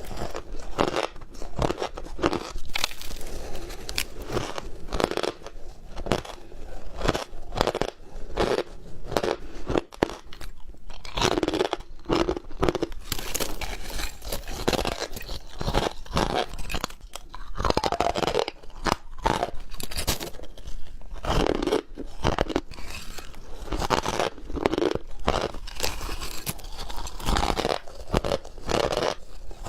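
Squeaky ice being chewed: a dense, irregular run of crunches and crackles with a few louder bites.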